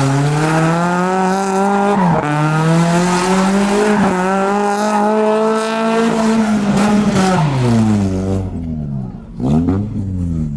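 A vehicle engine revved up and held at high revs, dipping briefly about two and four seconds in, then dropping off about seven seconds in, with a quick second rev near the end.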